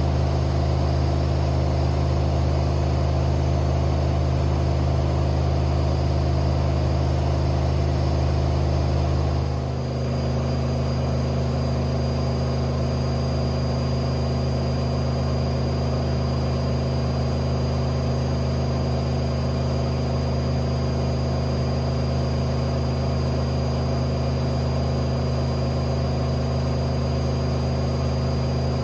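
AEG Lavamat 6610 washing machine spinning, a steady motor hum with several fixed tones. About ten seconds in it dips briefly and the pitch shifts a little as the drum changes speed, and a high whine joins in.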